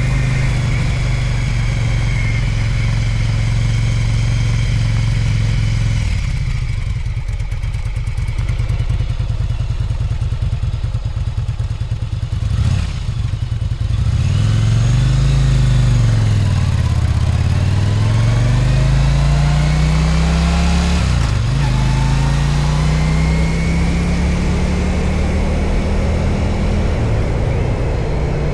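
Yamaha Virago 1100's air-cooled V-twin engine on the move. It runs at a steady pitch, then goes quieter about six seconds in with the throttle off. Past the middle it revs up and back down, then rises steadily in pitch as the bike accelerates, with a brief break about two-thirds of the way through at a gear change.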